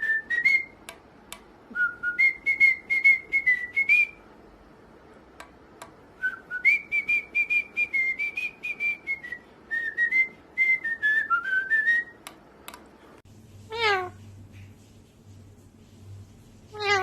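A parrot whistling a tune in short notes mixed with sharp clicks. After a pause, two wavering meow-like calls, each falling steeply in pitch, come about three seconds apart.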